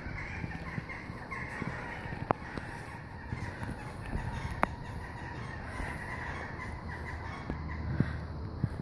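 Birds calling continuously in the background, with a couple of sharp taps.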